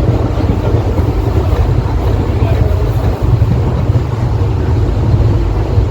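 Steady low rumble of a passenger train on the move.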